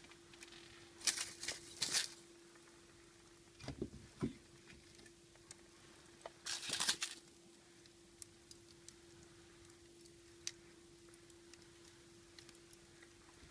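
Wood fire in a fireplace crackling, with scattered small pops and two louder flurries of crackling, about a second in and again at around six and a half seconds, over a faint steady hum.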